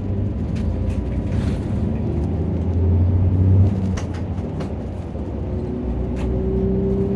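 Nissan Diesel PKG-RA274KAN city bus's diesel engine pulling, heard from inside the cabin. The rumble grows louder over the first three and a half seconds, then eases off, and a faint whine rises in pitch near the end.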